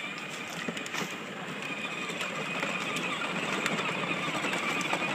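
A motor running steadily, with a faint high whine and a few light clicks.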